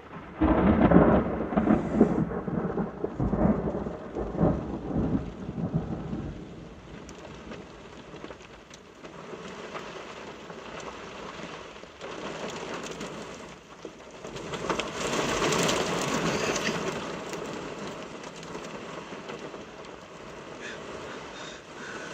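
A thunderclap breaks at the start and rolls on in a loud rumble for about six seconds over steady rain. The rain grows louder for a couple of seconds later on.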